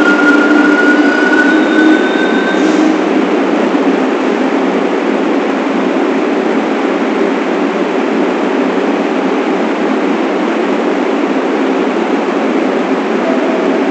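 New York City subway train on the 1 line running, heard from inside the front car: a steady loud rumble and rattle of wheels on rail, with a high thin whine over it for the first few seconds.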